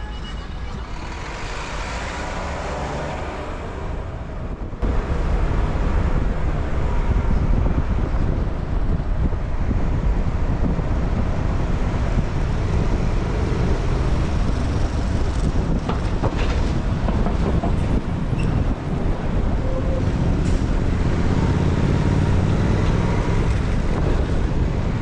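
City street traffic heard from a moving bicycle, with wind rumbling on the action camera's microphone; the noise grows sharply louder about five seconds in and stays that way.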